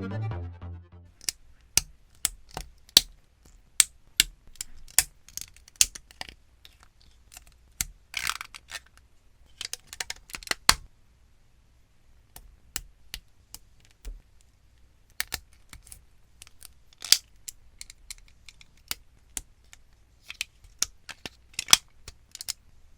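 Irregular sharp clicks of hard plastic as Gunpla model-kit parts are cut from their runners and snapped together, with a couple of short scraping rustles about eight and ten seconds in. Electronic music fades out just at the start.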